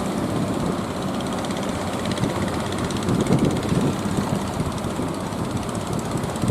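Motor boat's engine running steadily.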